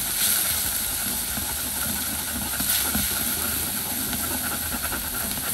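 Minced freshwater shrimp sizzling with a steady hiss as it is stir-fried in a stainless steel pot and stirred with chopsticks.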